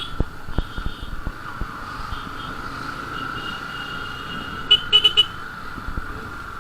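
Road noise from a moving motorcycle, with vehicle horns tooting: a held toot from about three seconds in, then three quick beeps near five seconds. Short low thumps of wind hit the microphone throughout.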